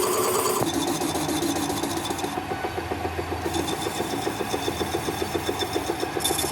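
A workshop machine running with a rapid, even rasping rhythm of several strokes a second over a steady high whine.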